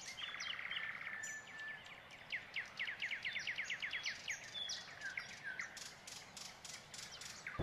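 Birdsong: a rapid trill near the start, then a run of quick descending whistled notes, several a second, through the middle.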